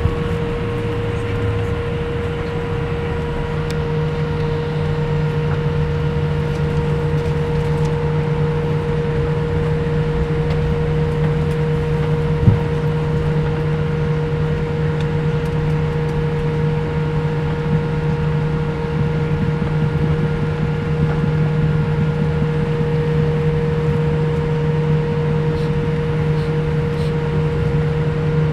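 Steady drone of a Boeing 787 airliner's jet engines and air system heard inside the passenger cabin, with a couple of steady hums. A single short knock comes about twelve seconds in.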